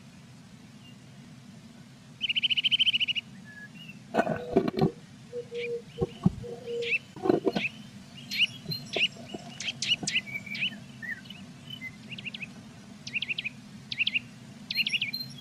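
Blue tits calling at the nest box: a buzzy trill lasting about a second, then a run of short high chirps and calls. Several knocks and rustles mixed in come from the bird moving against the nest box.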